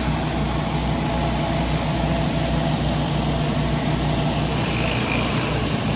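Pressure washer engine running steadily, with the hiss of water jets from a surface cleaner passing over concrete.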